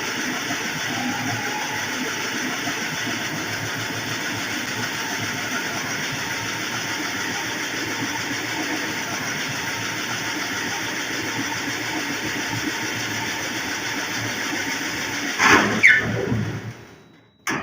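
A power tool running steadily with a noisy whir. Two loud knocks come near the end, then it dies away and stops.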